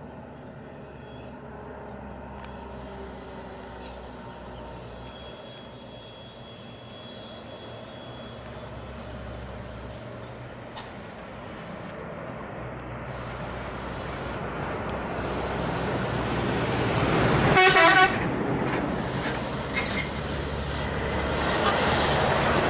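A heavy loaded truck's diesel engine works under load on a hill climb, growing steadily louder. A short, loud horn toot sounds a few seconds before the end.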